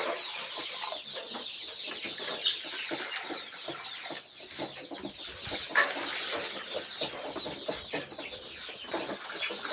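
A flock of about 200 four-week-old layer chicks cheeping and clucking continuously, many short high calls overlapping, with a few sharp knocks, the loudest about six seconds in.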